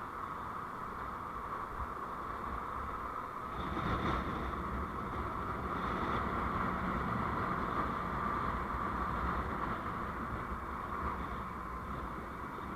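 Steady vehicle driving noise picked up by a dashcam, a mix of road rumble and running-engine hum, growing a little louder about four seconds in.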